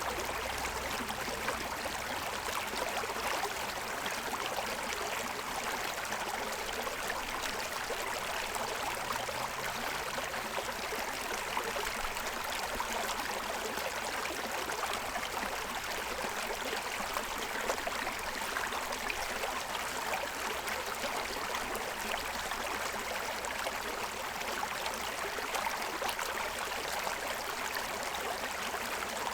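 Forest stream running over a stony bed: a steady rush and babble of water.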